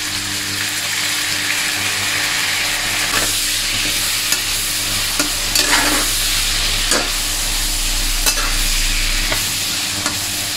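Diced pork frying in oil in a metal wok, a steady sizzle, as dark soy sauce is poured in and stirred through. The spatula scrapes and clinks against the pan in scattered short knocks.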